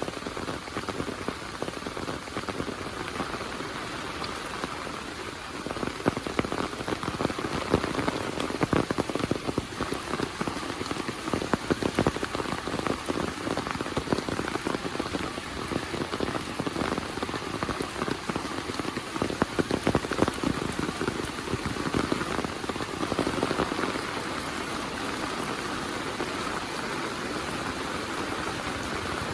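Heavy monsoon rain falling, a steady rush with dense close patter of drops striking a surface, heaviest and most uneven through the middle, turning to a smoother, even rush near the end.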